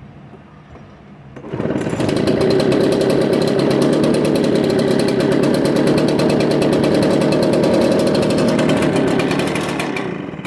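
Echo PB770H backpack blower's two-stroke engine firing up on a hot restart with no choke about a second and a half in, running loud and steady, then winding down near the end.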